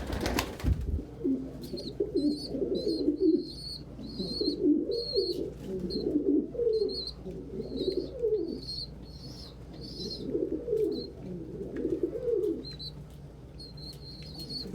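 Pigeons cooing in repeated rolling phrases, with a young pigeon's short high peeps over them throughout. A sharp thump right at the start.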